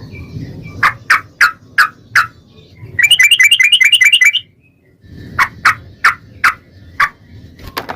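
Yellow-vented bulbul (trucukan) singing loudly: a string of separate sharp notes, a fast rapid-fire run of repeated notes about three seconds in, then more spaced notes, over a low background rumble.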